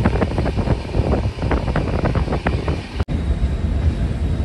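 Passenger train running, heard from inside the coach by an open window or door: wind buffets the microphone and the wheels clatter irregularly over the rails. About three seconds in, the sound cuts abruptly to a steadier rumble.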